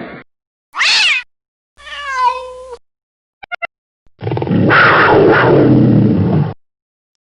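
A string of separate domestic cat calls with silence between them. First a short meow falling in pitch, then a longer meow that drops in pitch at its end, then three quick chirps, then a long rough, harsh cry of over two seconds.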